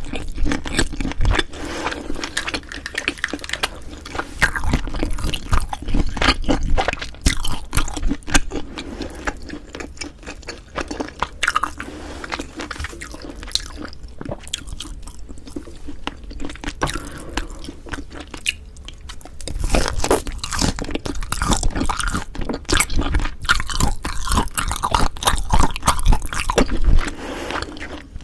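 Close-miked eating sounds: a person chewing and biting food with many small wet clicks and smacks of the mouth, quieter for a few seconds midway and busier again about two-thirds of the way through.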